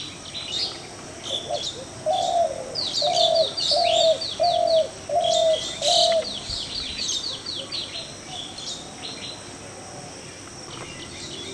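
Birds calling: a low hooting note repeated about seven times, a little under two a second, over quick high chirping and twittering. The calling thins out in the second half.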